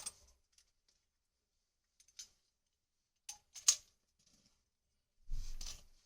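A few sharp clicks and taps of copper pipe and fittings being handled while a joint is fluxed and fitted together, the loudest about two thirds of the way through, then a short rustling scrape with a dull knock near the end.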